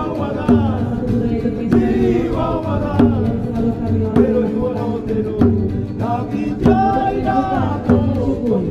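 Voices singing a chant-like song over a steady percussive beat that falls about once every second and a bit.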